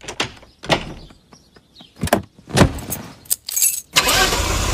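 A few separate knocks and clunks, then about four seconds in a car engine starts running steadily with an even low pulse.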